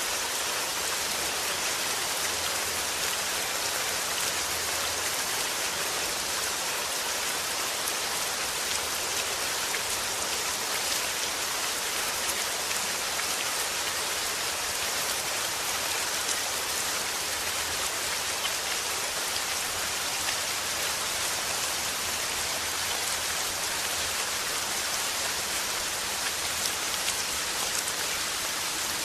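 Rain falling steadily: an even hiss with a fine patter of drops.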